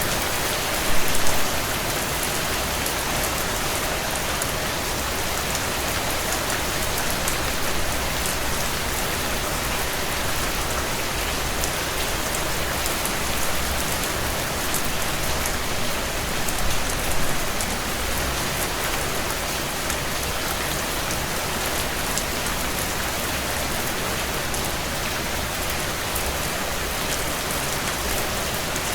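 Heavy rain drumming steadily on a tin roof, a dense patter of drops with a few brief louder surges about a second in and around seventeen seconds in.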